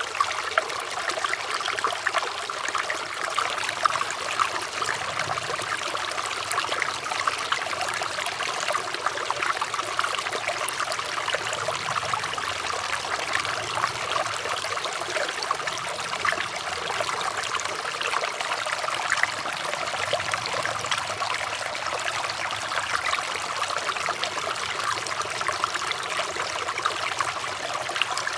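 Running water trickling and splashing steadily, like a small stream flowing over stones.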